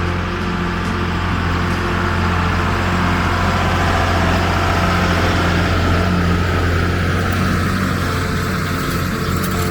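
Allis-Chalmers farm tractor engine running steadily with a deep drone.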